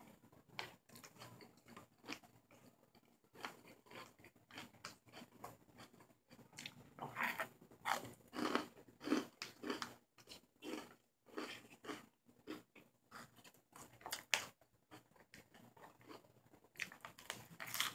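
Close-up chewing and crunching of raw salad, in irregular bursts, with the fork now and then clicking on the plate.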